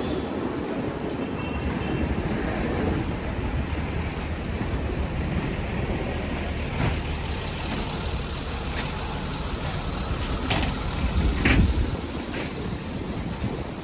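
City street traffic: vehicles, including a heavy truck or bus, passing with a steady low rumble. Several sharp knocks come in the second half, the loudest about eleven and a half seconds in.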